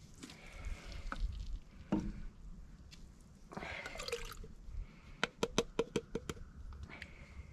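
Green beans and potatoes with their liquid being poured into a cooking pot, a short splash and slosh about halfway through. A few knocks come first, and a quick run of about ten sharp taps follows.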